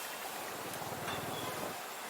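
Motorcycle engine running steadily under way, with wind rush and street traffic noise around it.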